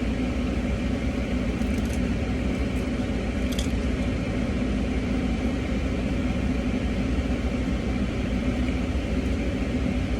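A car's engine idling, heard from inside the cabin as a steady low hum, with one faint click about three and a half seconds in.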